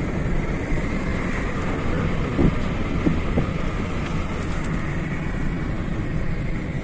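A car moving along a road: steady engine and tyre rumble.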